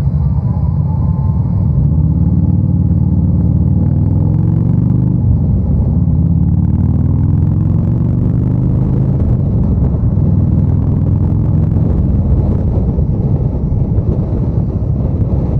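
Motorcycle engine heard from the rider's seat, pulling away and accelerating through the gears: a rising engine note with a gear change about five seconds in, a second rising pull, then a steady rush of engine and wind once up to highway speed.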